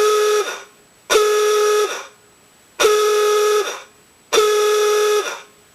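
Rebuilt Sparton electric horn from a 1930 Model A Ford, its motor-spun ratchet disc driving the diaphragm, sounded in four short blasts of just under a second each: a steady whine that sags in pitch as each blast cuts off. It is run from a 9.6-volt drill battery rather than its usual 6 volts, so it sounds a little less deep than it perhaps would on 6 volts. The horn works after the repair.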